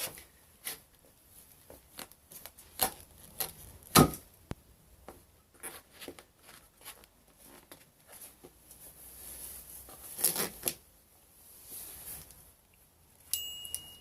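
Irregular knocks, scuffs and crackling of a canvas sneaker being crushed and trampled, with a short high squeak near the end.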